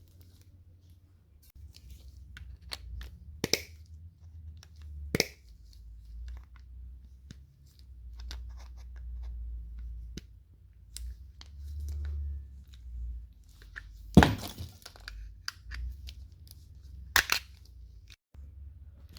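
Scattered sharp clicks and cracks over a low rumble of handling noise, the loudest about fourteen seconds in: metal and plastic parts of a microwave oven being broken and pulled apart by hand.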